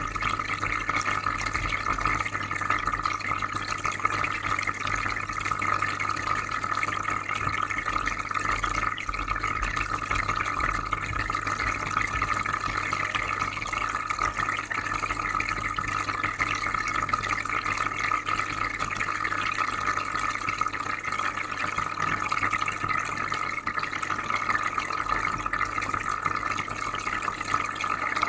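Freshwater aquarium filter running: a constant soft bubbling and trickling of water over a steady low hum, unchanging throughout.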